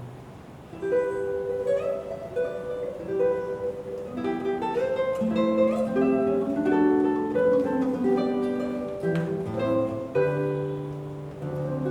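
Solo classical guitar playing a melodic passage of plucked notes over held bass notes. After a brief pause, the notes resume about a second in.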